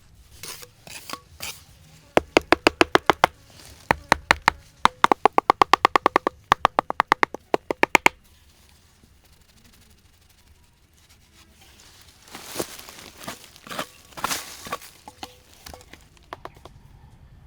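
A fast, even series of sharp knocking strikes, about six a second, each with a short ring, running in bursts for several seconds. It is followed about ten seconds in by scattered cracks and rustling.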